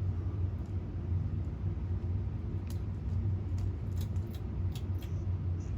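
Canarm CP56 industrial ceiling fan coasting down unpowered after being switched off: a steady low rumble with a few faint ticks.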